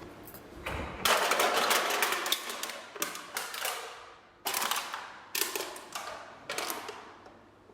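Tin clattering in a series of rapid bursts, each about a second long and dying away.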